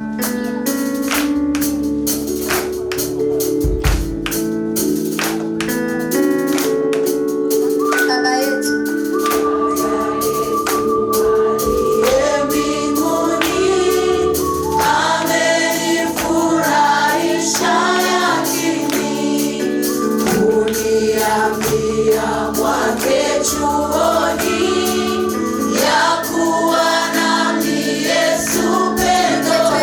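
Gospel choir singing praise music over instrumental accompaniment with a steady percussive beat. The opening is instrumental; a voice enters about eight seconds in and the full choir joins from about fifteen seconds.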